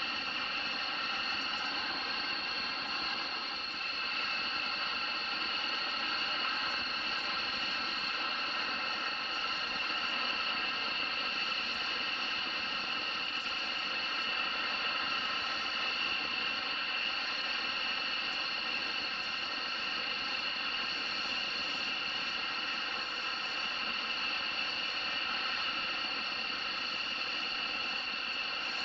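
Steady high-pitched whine of a jet aircraft's turbine engines, holding at one pitch without rising or falling.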